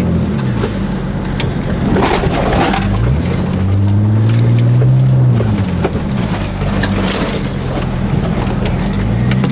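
Jeep engine driving along a rutted snow trail, revving up about three seconds in, holding for a couple of seconds, then easing off, and revving up again near the end. Scattered knocks and rattles run throughout.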